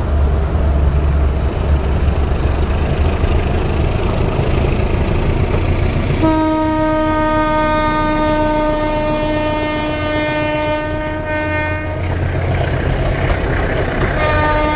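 Philippine National Railways diesel train running close by with a heavy low engine rumble, sounding one long steady horn blast from about six to twelve seconds in, with another blast starting at the very end.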